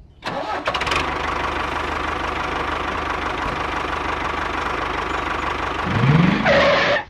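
Engine running steadily with a fast, even knocking. Near the end there is a rising tone and a louder burst, then it cuts off suddenly.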